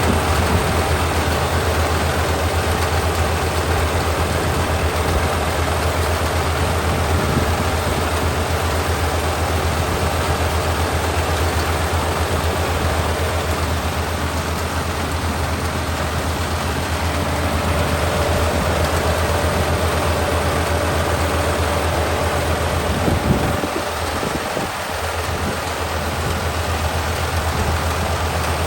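Kubota ER572 combine harvester's 72-horsepower engine and machinery running steadily with a low hum. A faint whine joins about halfway through, and the low hum briefly drops away near the end.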